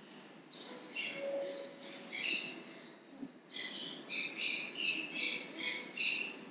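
Small birds chirping: a quick series of short, high-pitched calls, a few a second, thinning out briefly near the middle and then running on steadily.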